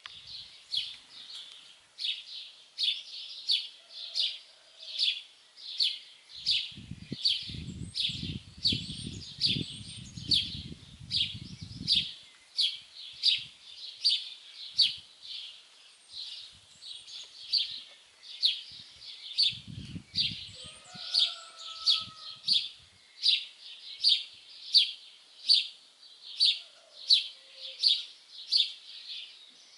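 A songbird repeating one short, sharp, high chirp over and over, about twice a second, with other birds calling faintly. A low rumble comes in for about five seconds near the first third and briefly again in the middle.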